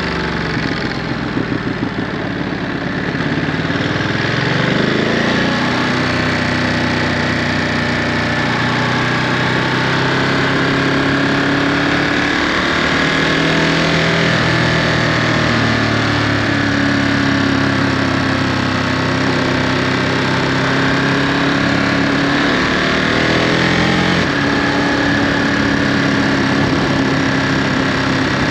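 2022 Ducati Monster 937's 937 cc L-twin engine running through its stock Euro5 exhaust. Low, uneven revs for the first few seconds, then it pulls up in pitch and holds steady cruising revs with gentle rises and falls.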